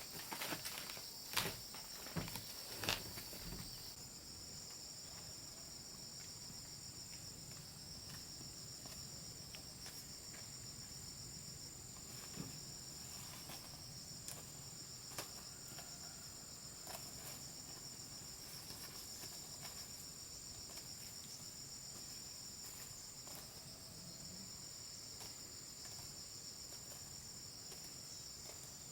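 Insect chorus, a steady high trill like crickets, with a few sharp knocks in the first three seconds.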